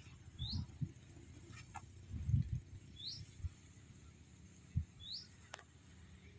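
A bird giving a single short, high chirp about every two seconds, over low thumps and rumbles, the loudest about two and a half seconds in, and a sharp click near the end.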